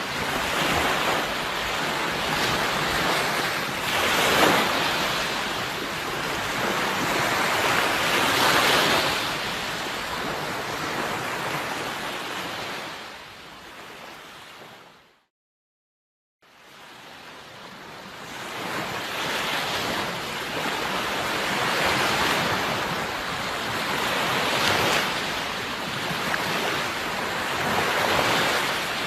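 Sea waves washing in steady surges, each swelling and easing over a few seconds. About halfway through the sound fades out to a second of silence and fades back in, a join in the soundtrack loop.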